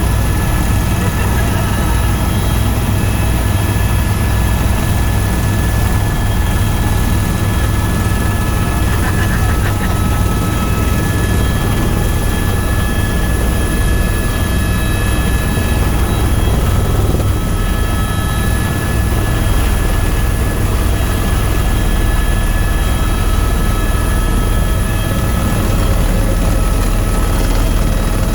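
Tour helicopter in flight: a steady, loud rotor and engine drone with a constant low rumble and a few faint steady whining tones above it.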